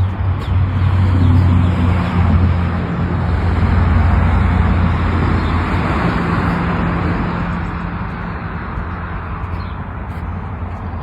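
A 2004 Harley-Davidson Road Glide's V-twin engine running with a steady low hum, swelling over the first few seconds and easing off somewhat after about six seconds.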